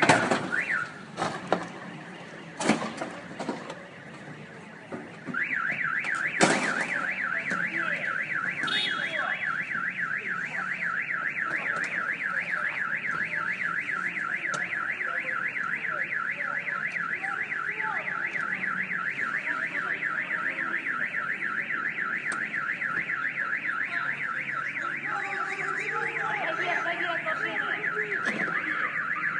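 A car alarm siren comes on about five seconds in and warbles rapidly up and down at a steady pitch range. A few sharp knocks sound before it starts.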